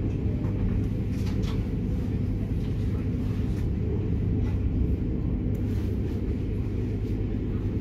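Bombardier Régio2N electric train running at speed, heard from inside the passenger cabin: a steady low rumble with a constant hum.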